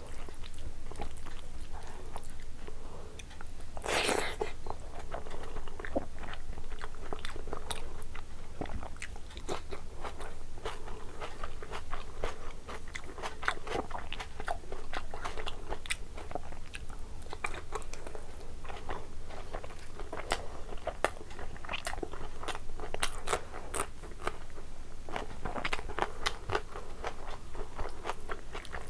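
Close-up eating sounds: a mouth chewing and crunching rice and curry, with many small wet clicks and smacks, and one louder noisy burst about four seconds in.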